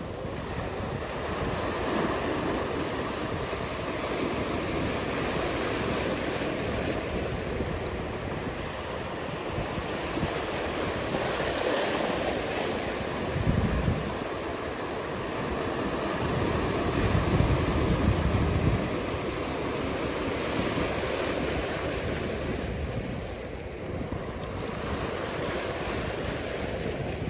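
Breaking ocean surf and wind as a steady wash of noise, with wind rumbling on the microphone twice near the middle.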